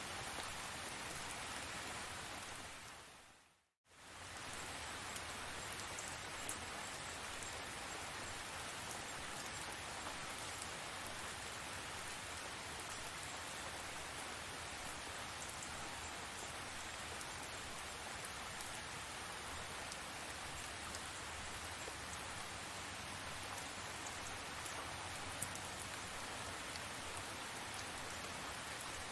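Steady tropical rain falling, an even hiss with scattered drop ticks. About three seconds in it fades briefly to silence and comes straight back, as at a loop join.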